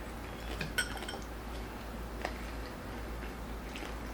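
Faint eating sounds: a few soft clicks and crunches from crispy pork belly being eaten by hand. The clearest comes about a second in, with a brief ring.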